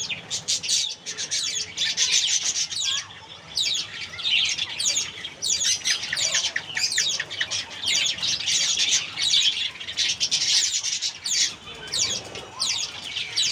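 Pet Java sparrows and lovebirds chirping in fast, high-pitched runs of notes, almost without pause.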